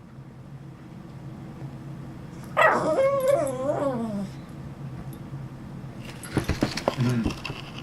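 Chihuahua puppy giving a long, wavering whine-yowl of about a second and a half, its pitch warbling up and down and sliding lower at the end. Near the end come a few knocks and a short yip.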